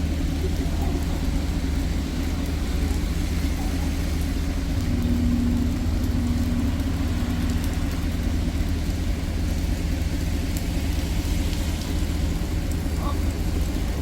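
Steady low rumble of a vehicle in motion, with a brief higher hum about five seconds in.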